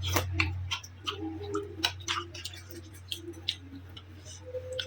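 Close-up eating sounds of someone eating noodles: irregular wet clicks and smacks of chewing, several a second, over a steady low hum.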